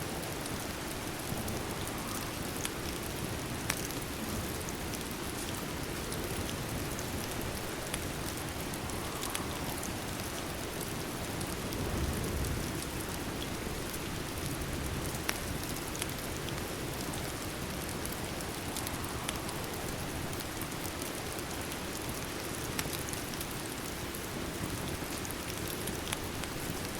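Steady rain falling, an even hiss with scattered sharp little ticks. A brief low swell comes about twelve seconds in.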